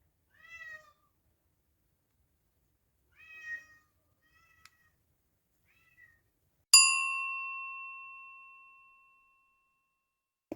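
A cat meowing softly twice, with two fainter short mews after, then a single bright ding that rings on and fades away over about two seconds.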